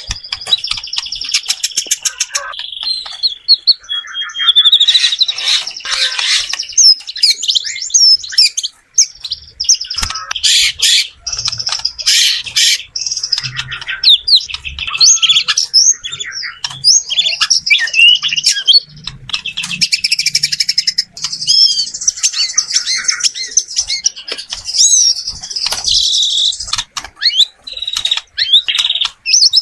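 White-rumped shama (murai batu) singing a long, varied song of rapid whistles, trills and chattering phrases, loud and almost without pause.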